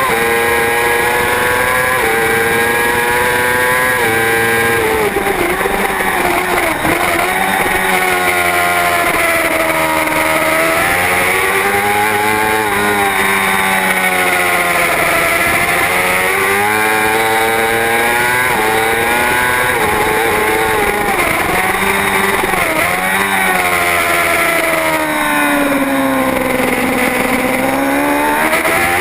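Superbike racing motorcycle engine at high revs, its pitch climbing as it accelerates and dropping away on the brakes several times, about four big swings in all, with a deep dip near the end. A steady rush of noise runs under it.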